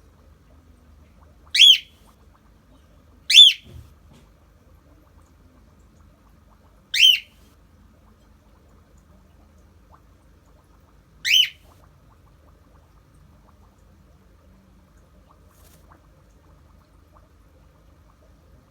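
Cockatiel giving its flock call: four loud, short whistled calls, each a quick rising-and-falling sweep, a few seconds apart with the gaps growing longer. It is the contact call a cockatiel makes when it is calling for a companion it cannot see.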